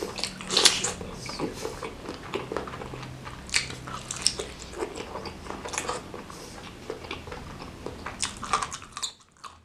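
Close-miked biting and chewing of a spicy stuffed beef meatball (bakso), with many quick, irregular mouth smacks and clicks. The sound dips briefly to near quiet about nine seconds in.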